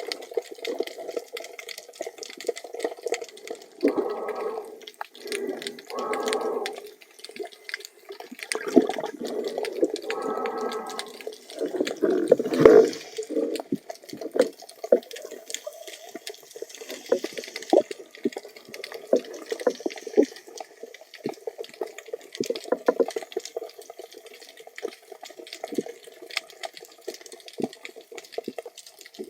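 Muffled underwater sound of moving water, with a dense scatter of small clicks and several short rushing swells. The loudest swell comes about twelve seconds in.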